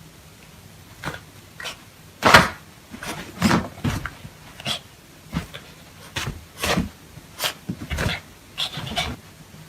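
A dog panting in short, uneven puffs that start about two seconds in.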